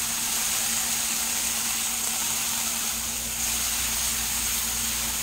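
Diced bacon and tomato sizzling steadily in a frying pan, stirred now and then with a silicone spatula, as the tomato's water cooks off. A faint steady low hum runs underneath.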